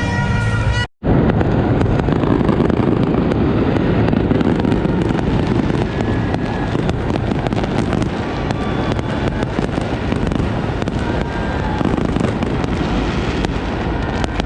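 Fireworks going off continuously: a dense run of rapid pops and crackles over a steady rumble of distant blasts.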